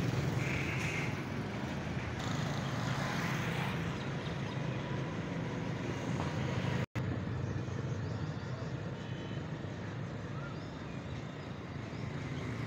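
Steady motor-vehicle engine and traffic rumble, with a momentary dropout about seven seconds in.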